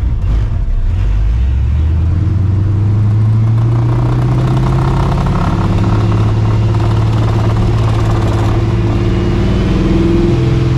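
Straight-piped, Procharged V8 of a 1999 Mustang GT with a 5.4-litre iron block. It pulls up through the revs over the first few seconds, then holds a steady cruise with a brief dip and pick-up near the end.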